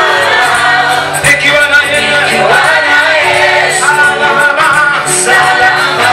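Live gospel praise music: voices singing a melody over a band accompaniment with held bass notes.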